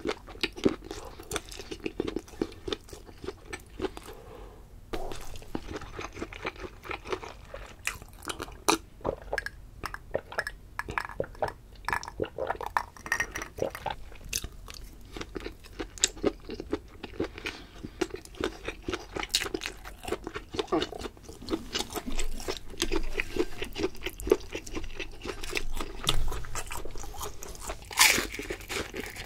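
Close-miked chewing of sushi: a steady stream of small, irregular mouth clicks and crunches. Near the end comes a louder, crunchier bite into a piece of fried shrimp tempura.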